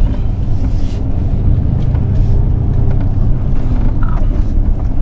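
Steady low engine and road rumble of a pickup truck, heard from inside the cab while driving.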